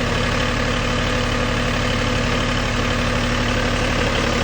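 Tractor engine running steadily at an even speed, with a fast, regular firing pulse.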